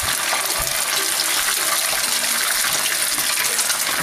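Egg-battered silverfish frying in a pan of hot cooking oil: a steady, even sizzle.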